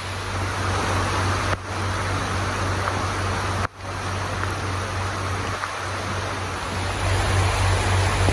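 Heavy rain pouring, a steady loud hiss with a low hum under it. The sound breaks off briefly twice.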